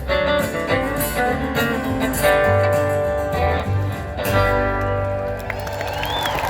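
Live country band playing the instrumental ending of a song, led by guitar with strummed chords. About five seconds in, the crowd starts cheering and whistling as the song ends.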